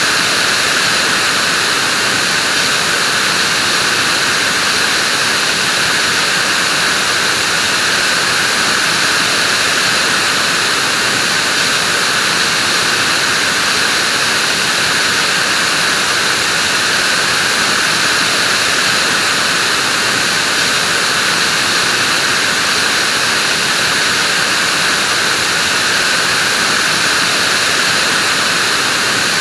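Vacuum cleaner running steadily, a continuous hiss-like whoosh with a strong high, airy band and no change in pitch or level.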